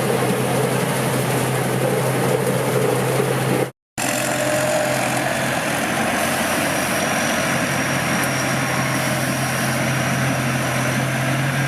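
Large rice combine harvester with a Hino diesel engine running steadily while harvesting: a continuous mechanical drone over a steady low hum. The sound drops out completely for a moment about four seconds in.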